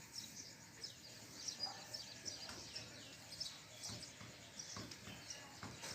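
Many small birds chirping together: a busy, overlapping stream of short high chirps, many sliding down in pitch.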